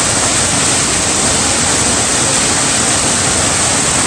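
Waterfall's falling water: a loud, steady rush of water.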